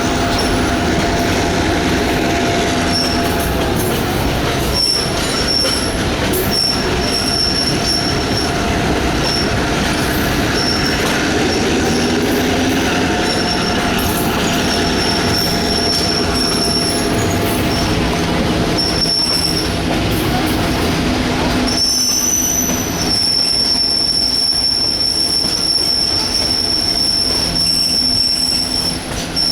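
Passenger train rolling along the track with a steady rumble, its wheels squealing high on curves. The squeal comes and goes, then holds steadily for the last six seconds or so.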